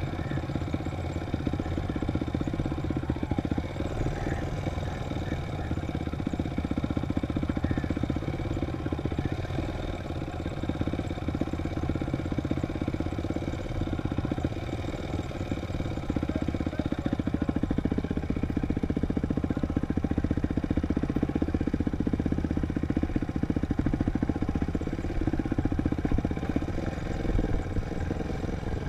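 Dirt bike engine running at low, fairly steady revs, a little louder from about halfway through.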